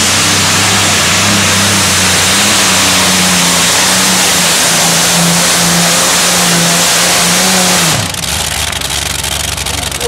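A pulling tractor's engine running flat out under load during a pull, loud and steady with a strong hiss. About eight seconds in the throttle is cut, the pitch falls away and the engine drops back to a lower, quieter run.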